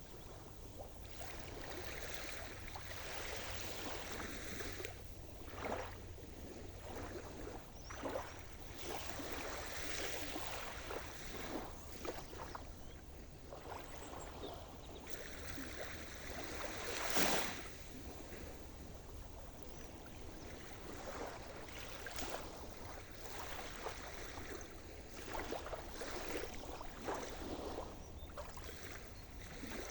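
Sea surf: small waves breaking and washing on the shore, with one stronger wave crashing about halfway through.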